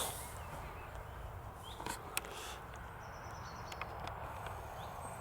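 Faint outdoor ambience with a low rumble, a few faint bird chirps and a thin wavering high tone. A single sharp click comes a little over two seconds in.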